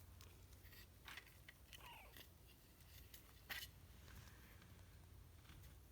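Near silence with faint scratching and small clicks, and a soft knock about three and a half seconds in.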